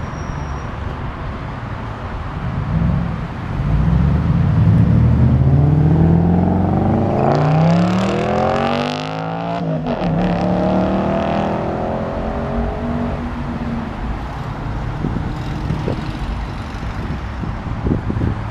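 A car's engine revving up under hard acceleration, its pitch climbing for several seconds. It drops sharply at a gear change about ten seconds in, pulls on briefly and fades away.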